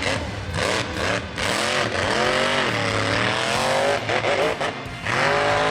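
A high-horsepower mega mud truck's engine revving hard, its pitch climbing and dropping in several swells, over a steady rushing noise.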